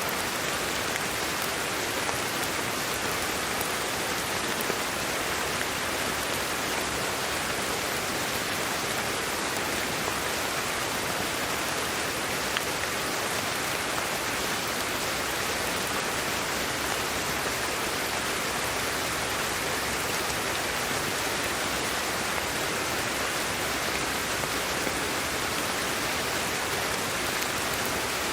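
Steady sleep-aid white noise, an even, unchanging hiss with a rain-like texture.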